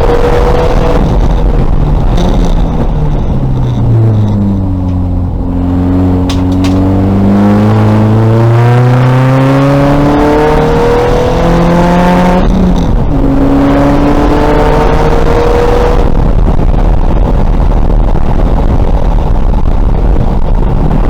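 2000 VW Golf race car's engine under racing load: the revs fall for a few seconds as it slows, then climb through the gears with one upshift about twelve seconds in, and hold high near the end.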